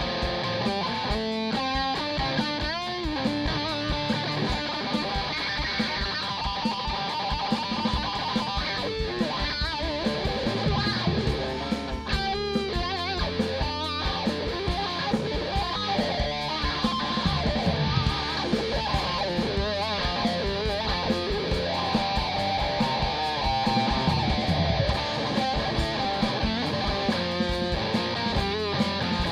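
Live rock band playing an instrumental passage: electric guitars over bass and drums, with a lead line that bends and wavers in pitch.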